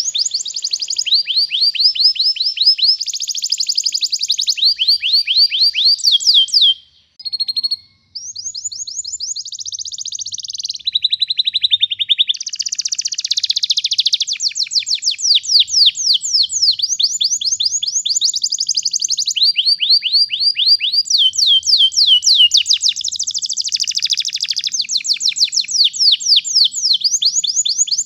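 Domestic canary singing a long, unbroken rolling song: fast trills of rapidly repeated high notes that switch to a new phrase every second or two, with a brief pause about seven seconds in.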